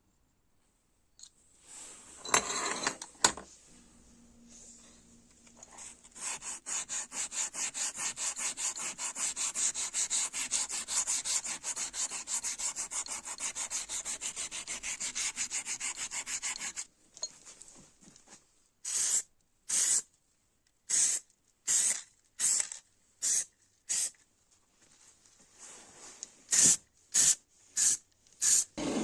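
Abrasive rubbing by hand on a part: a long run of quick, even back-and-forth strokes, then slower, separate strokes about a second apart near the end. A couple of knocks come a few seconds in.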